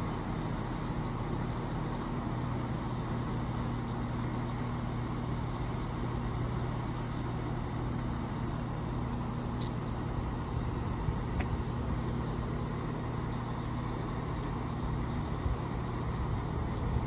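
Class 170 Turbostar diesel multiple unit standing at the platform with its underfloor diesel engines idling, a steady low hum.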